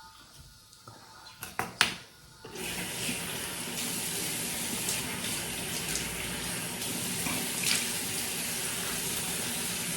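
A few sharp clicks and knocks, then water starts running from a tap about two and a half seconds in and keeps flowing as a steady hiss.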